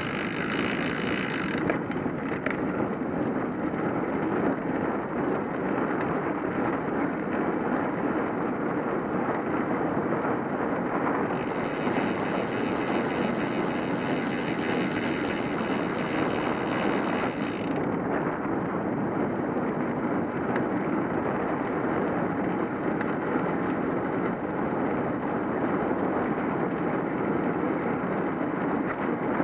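Steady wind rush on the microphone and road noise from a bicycle being ridden, with the high hiss dropping away and coming back twice.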